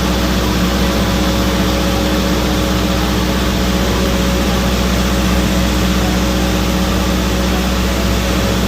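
Generator set (genset) engine running steadily under test, a constant loud hum that holds the same pitch throughout.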